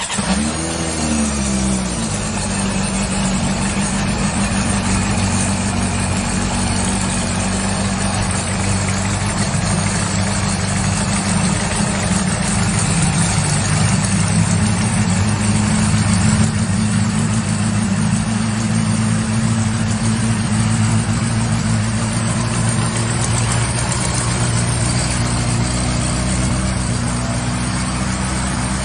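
Honda CB400 Super Four VTEC's inline-four engine, breathing through a Yoshimura aftermarket exhaust, starts and flares briefly in revs. It then settles into a steady idle.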